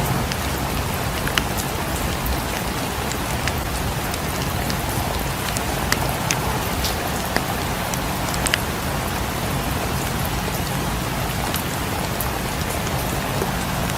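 Steady rain falling, mixed with a fireplace crackling, with scattered sharp pops and ticks.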